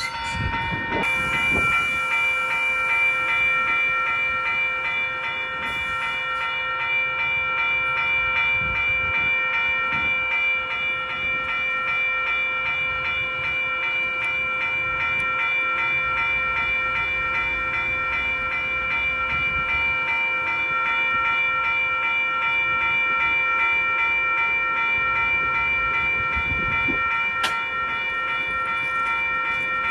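Train running: a steady rumble of the rolling train under several steady high-pitched tones that hold unchanged throughout, with a single sharp click near the end.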